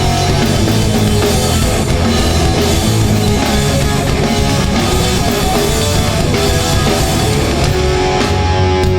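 Hardcore punk band playing live: distorted electric guitars, bass and drum kit, loud and dense, with sharp cymbal and drum hits near the end.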